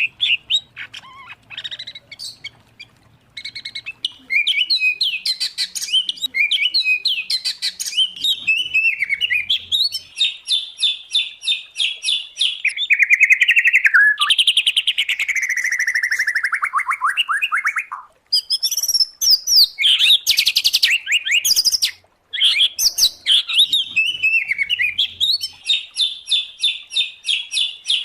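Mixed songbird song of white-rumped shama, oriental magpie-robin and greater green leafbird: a loud, varied run of whistles, rapid repeated notes and trills. Midway there is a long, falling trill, and the song breaks off briefly twice near the end.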